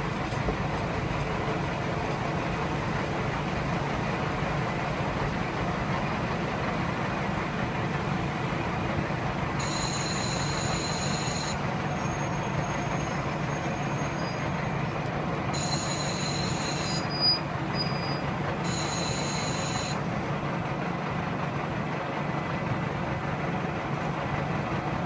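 Diesel railcar running along the line, heard from inside the carriage as a steady engine and wheel rumble. Three brief high-pitched wheel squeals come in the middle stretch, and there is a single short thump between the last two.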